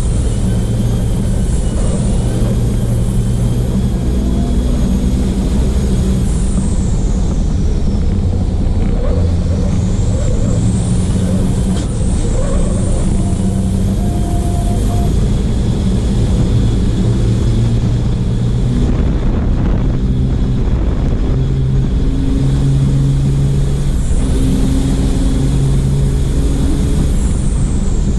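Copa Truck racing truck's diesel engine running hard at racing speed, picked up by an onboard camera at the rear of the truck. The engine note changes pitch several times as it accelerates and shifts, over steady wind and road noise.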